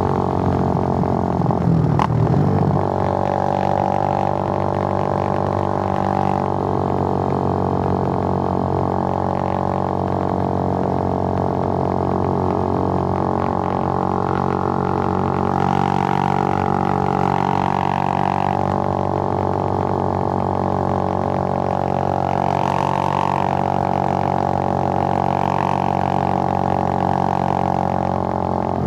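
Suzuki GN125's air-cooled single-cylinder four-stroke engine running at a steady speed under way, a steady drone. The engine note briefly changes about two seconds in.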